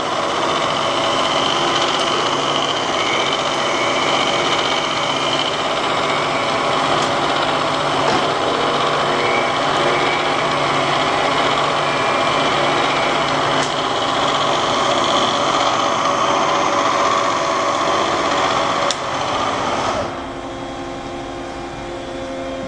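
Bridgeport Series I vertical milling machine running with a steady mechanical whir. About twenty seconds in it drops to a quieter, lower-pitched run.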